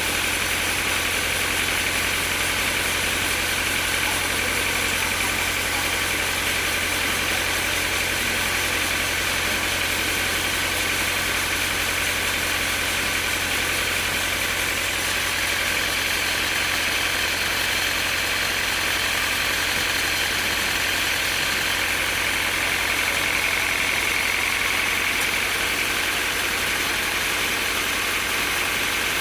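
Sawmill machinery running steadily: a continuous engine-like hum with a high whine above it that wavers slightly in pitch.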